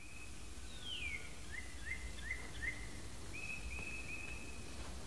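Birds singing over faint outdoor background noise: a falling whistle about a second in, then four short rising chirps, then a few held whistled notes.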